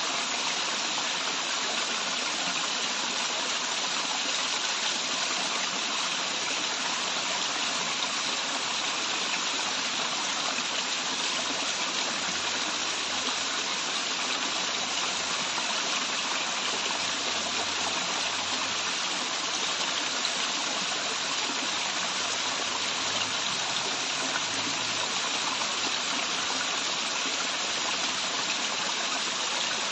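Waterfall, a steady rush of falling and running water.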